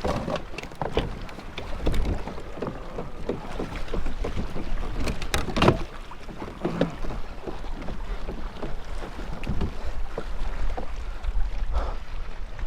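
Wind buffeting the microphone and water against a fishing kayak, with irregular knocks and clicks from gear being handled on board.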